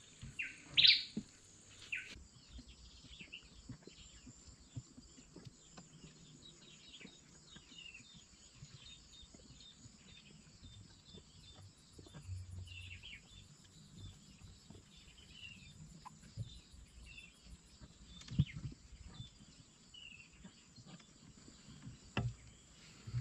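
Birds chirping around the river: many short, falling calls repeated throughout, loudest in the first two seconds. A faint, fast, high ticking runs for a few seconds midway, and there are two sharp knocks near the end.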